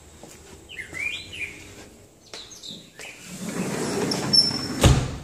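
Birds chirping in short curved calls about a second in, with a brief high whistled note later. Handling and footstep-like rustling fill the second half, ending in a sharp knock.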